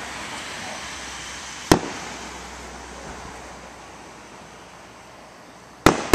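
Fireworks going off: two sharp bangs about four seconds apart, the second near the end, each echoing away, over a steady background hiss.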